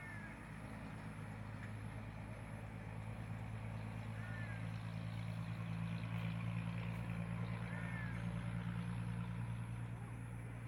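Combine harvester engine running steadily, growing louder to a peak about six seconds in and then easing off. A bird calls briefly every three to four seconds over it.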